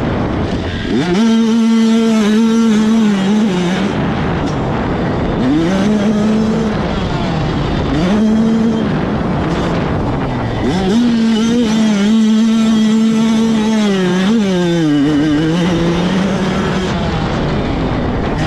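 85cc two-stroke motocross bikes racing, the engines revving hard: each note climbs, holds high for a second or more and drops back as the throttle is rolled off, several times over, with the longest high run about halfway through.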